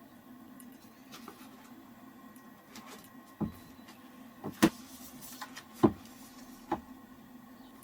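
A handful of sharp knocks and clicks from objects being handled and set down, about five in all, the loudest two a little after four and a half and just before six seconds in, over a steady low hum.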